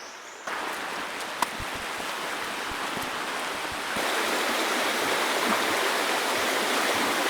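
River water rushing steadily, growing louder in two steps, about half a second in and again about four seconds in.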